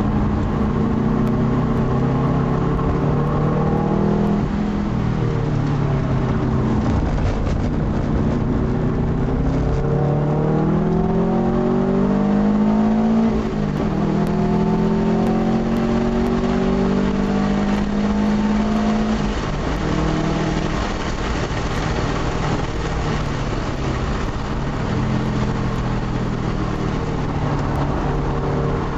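Saab 9-2X's flat-four engine heard from inside the cabin while lapping a track, repeatedly revving up and easing off. The pitch drops suddenly about 13 seconds in, and road and wind noise runs steadily underneath.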